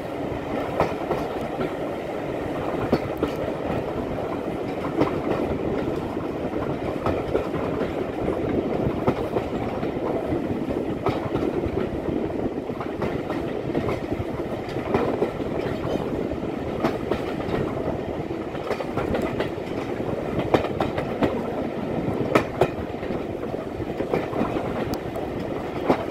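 Train in motion, heard from an open coach window: a steady rumble and rush of running noise, with the wheels clicking over rail joints about every two seconds.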